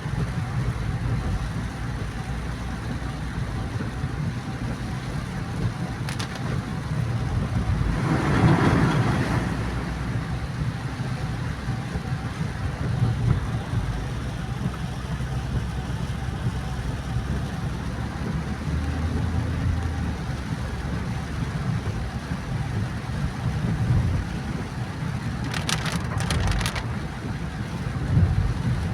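Car driving on a wet road: steady low engine and tyre rumble with the hiss of tyres on water, swelling into a louder rush of noise about eight seconds in.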